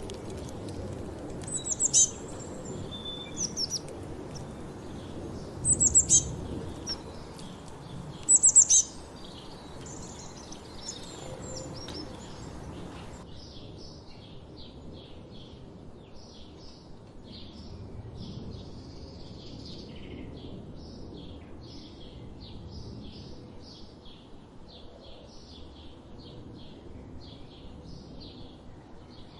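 Wild songbirds singing and calling. In the first half, loud, high, sharp calls come three times. About halfway through this gives way to a steady series of quick, short chirps, two or three a second.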